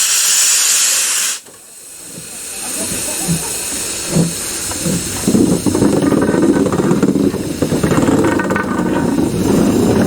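Steam locomotive letting off steam in a loud hiss that cuts off abruptly about a second and a half in, followed by a few low thumps and then a steady low rumble.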